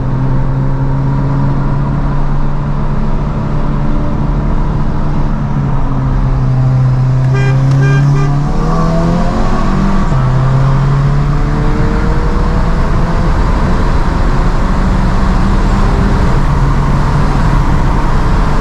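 Car engine and road noise heard from inside a moving car. A horn toots briefly about seven and a half seconds in, then the engine note rises and steps through a gear as the car accelerates hard, with wind and road rush building afterwards.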